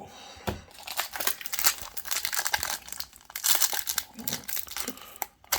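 Foil booster pack wrapper crinkling and being torn open by hand, an irregular run of crackles.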